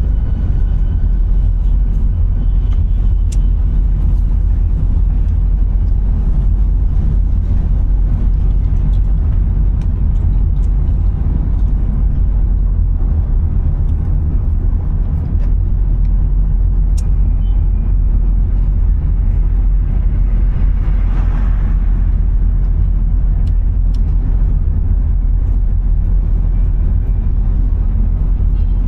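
Steady low rumble of a car driving, with a brief swell of noise about two-thirds of the way through.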